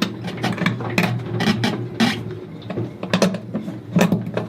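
Hand tools clicking and clattering as cables are wired to a boat's master battery switch: irregular sharp metallic clicks over a steady low hum.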